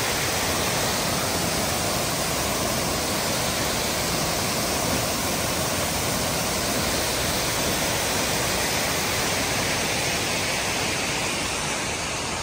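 Large waterfall thundering close by, a steady dense rush of falling water with no let-up.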